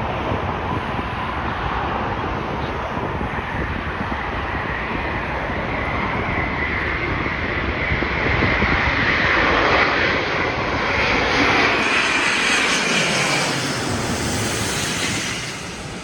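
Airbus A350-900 jet airliner on approach passing low overhead, its Rolls-Royce Trent XWB engines building to a peak with a high whine, then falling away sharply near the end.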